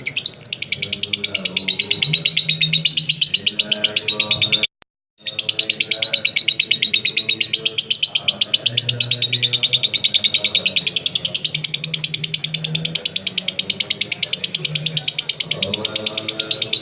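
Lovebird 'ngekek': a long, unbroken, rapid chattering trill of many high notes a second. It breaks off for half a second about five seconds in, then runs on.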